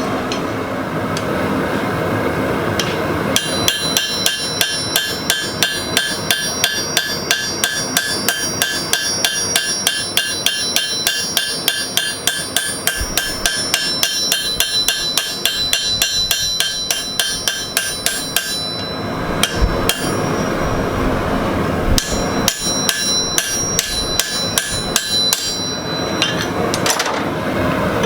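Hammer blows on a small homemade texturing punch held against a hot carbon-steel knife blade, each strike ringing metallically, about two a second. They begin a few seconds in, pause about two-thirds of the way through, and resume briefly.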